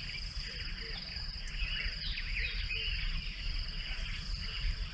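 Insects trilling steadily in one high, continuous note, with scattered short bird calls and a low background rumble.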